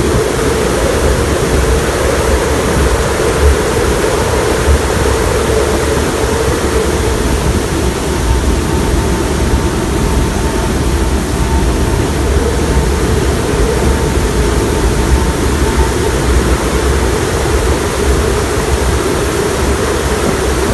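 Hurricane-force wind blowing steadily and loudly, buffeting the microphone with an uneven low rumble. A steady low moan runs under the rush.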